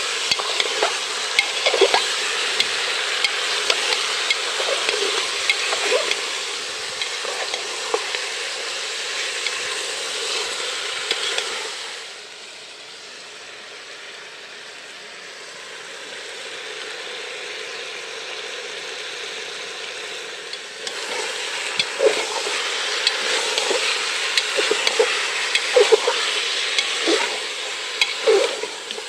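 Chicken pieces sizzling in oil in a metal pressure-cooker pot while a spatula stirs them and knocks and scrapes against the pot. The sizzle drops lower for several seconds in the middle, then comes back with more stirring.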